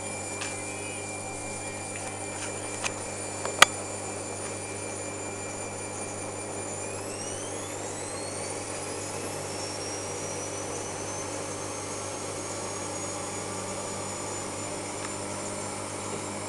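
Washing machine running with a steady hum and a high whine whose pitch glides upward about seven seconds in, then holds. A single sharp click comes a few seconds in.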